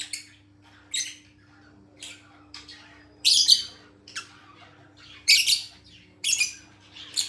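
A bird giving short, sharp, high chirping squawks, about one a second, the loudest a little past three and five seconds in.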